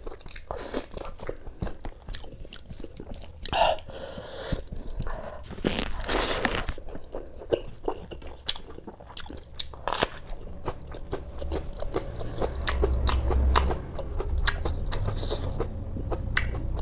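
Close-miked mouth sounds of a person eating with his hand: wet chewing and crisp crunching bites of food, including bites into a fresh green chilli.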